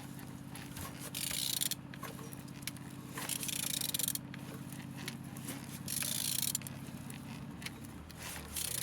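Used engine's crankshaft being turned over by hand with a tool, a scraping sound coming with each stroke about every two and a half seconds. A steady low hum runs underneath and changes pitch near the end.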